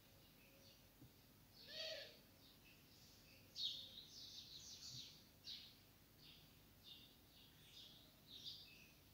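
Faint chirping of a small bird: a scattered run of short, high chirps and twitters, with the loudest a little under four seconds in.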